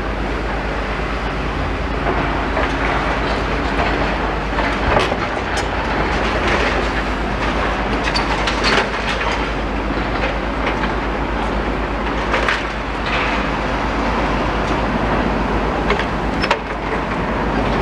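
Excavators working a demolition site: a steady diesel engine rumble, with scattered clanks and knocks as a grab picks up rubble and junk.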